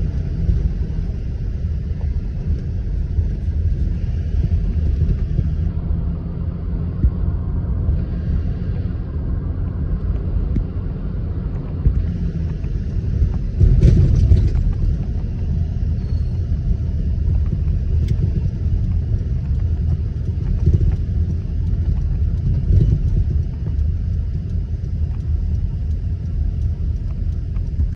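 Vehicle driving: a steady low rumble, with a louder knock about halfway through and a few lighter knocks later.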